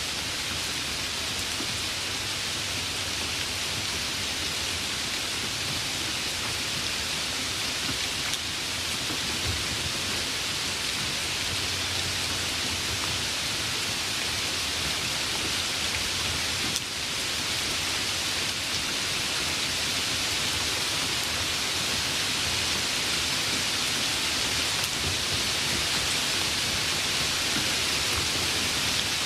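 Steady rain falling, an even dense hiss, with a faint low rumble partway through.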